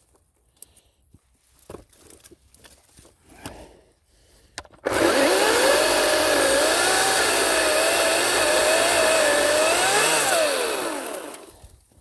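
Ryobi 40-volt battery chainsaw switching on abruptly about five seconds in and running loud for some five seconds, its motor pitch dipping and wavering as the chain cuts through wood, then rising briefly and winding down as it is released. Before it starts there are only faint scattered clicks of handling.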